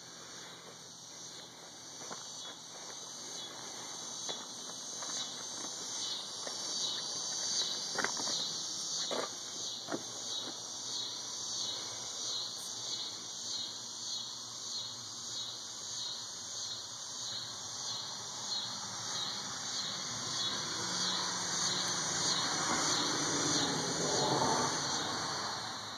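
Outdoor insect chorus, a high shrill trilling that pulses about twice a second, with a few sharp clicks and a rising wash of lower noise near the end.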